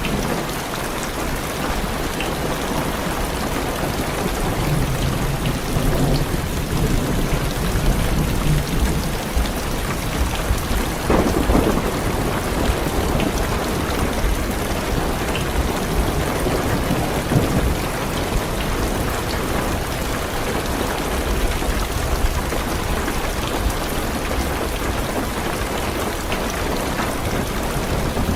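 Heavy rain drumming on a car's roof and windows, heard from inside the car, with thunder rumbling low beneath it, loudest about eleven seconds in.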